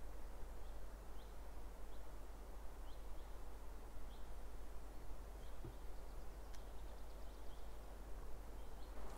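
A small bird calling short, high chirps about once a second over a steady, even background hiss of the forest.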